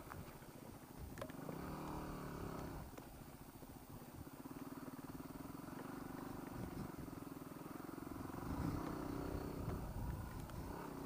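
Yamaha WR250R's single-cylinder four-stroke engine running at low revs while riding a trail, the revs rising and falling with the throttle.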